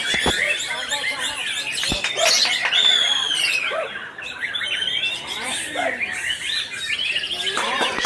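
White-rumped shamas (murai batu) singing over one another in a dense, continuous chorus of quick whistles, trills and chattering phrases, typical of many caged contest songbirds singing at once. About three seconds in, one clear slurred whistle falls in pitch.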